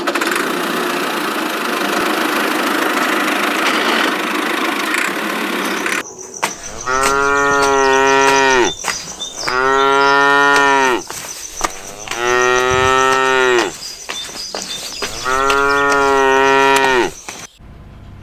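A steady rushing noise for the first few seconds, then a cow mooing four times, each moo long and drawn out, with short pauses between.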